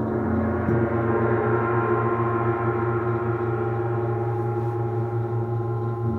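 Gong played in a sound bath, swelling at the start into a dense shimmer of overtones that slowly fades, over a steady low drone.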